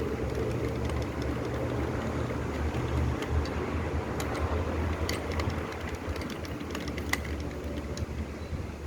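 A low, steady mechanical rumble with scattered light clicks and ticks, one sharper tick about seven seconds in.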